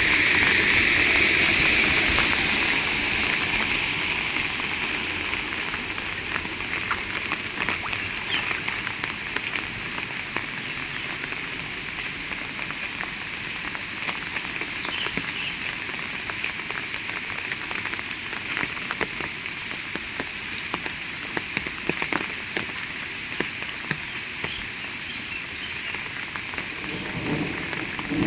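Heavy rain pouring down, a dense steady hiss dotted with the sharp patter of individual drops hitting close by. It is louder with a rushing sound for the first few seconds, then settles to an even downpour.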